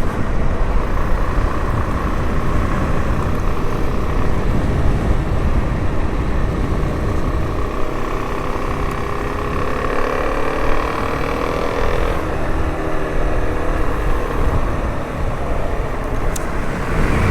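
Suzuki DR-Z400S single-cylinder four-stroke engine running on the move over a heavy low rumble of wind and road noise. The engine pitch climbs steadily over several seconds about halfway through, then eases off.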